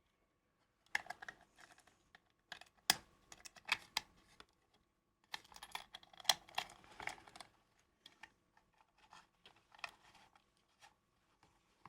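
Irregular small clicks, taps and scrapes of small metal parts and hand tools being handled, in several short flurries. A faint steady whine sits underneath.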